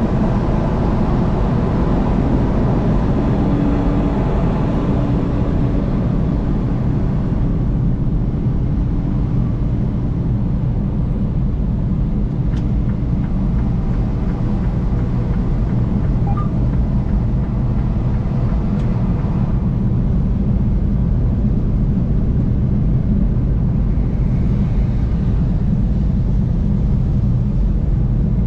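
Steady low rumble of a car driving on the highway: road and engine noise. A faint steady hum joins in for a few seconds near the start.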